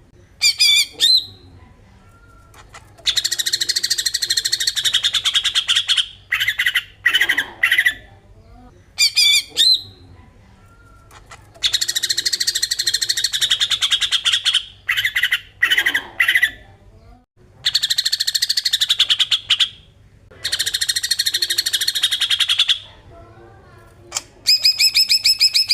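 Cucak ijo (leafbird) giving its harsh 'besetan' call: long runs of rapid, buzzy chattering lasting a few seconds each, alternating with short sharp phrases.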